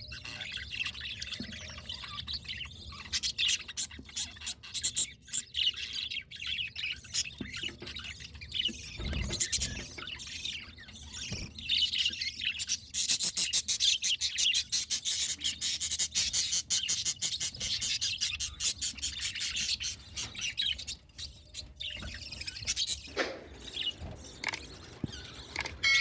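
Budgerigars chirping and chattering continuously in a rapid high twitter, busiest and loudest around the middle.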